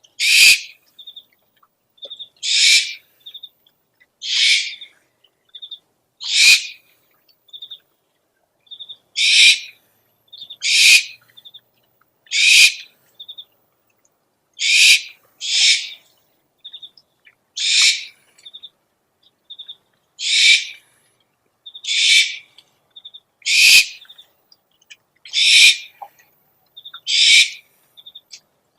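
Owl lure recording: harsh screeching owl calls, each under half a second, repeated about every one and a half to two seconds, with faint short chirps between them.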